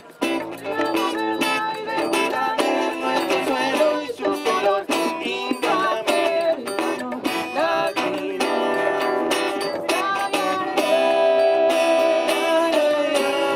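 Music played on plucked string instruments, guitar-like, with many notes and chords moving steadily throughout.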